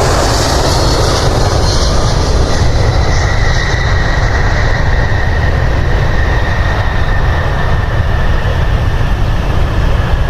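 Jet airliner engines running loud as the aircraft passes, a deep steady rumble with a thin whine that slowly falls in pitch.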